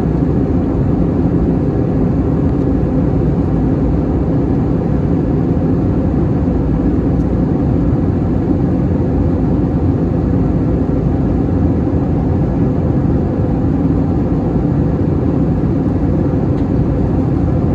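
Steady cabin noise inside an Airbus A321-211 in flight: the drone of its CFM56 engines and airflow over the fuselage, heaviest in the low range and unchanging.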